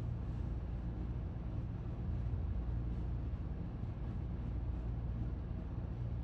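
Steady low outdoor background rumble with a faint hiss above it, unchanging throughout.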